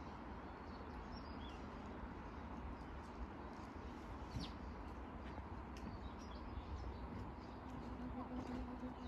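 Quiet outdoor ambience with a few faint bird chirps; near the end an insect starts buzzing close by, a steady hum.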